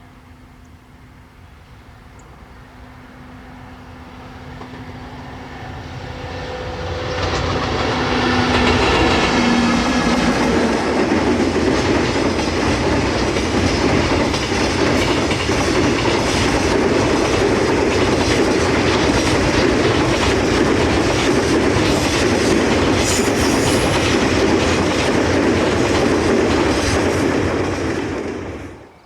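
Freight train approaching and passing close by, its wheels clattering over the rail joints. It grows louder over the first several seconds, with a steady low tone as it nears, then a long, even rumble and rattle of wagons that cuts off abruptly near the end.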